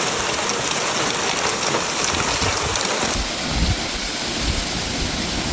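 Heavy rain and hail pelting down: a dense, steady hiss of countless small impacts. About three seconds in the sound changes abruptly, and low rumbling joins it.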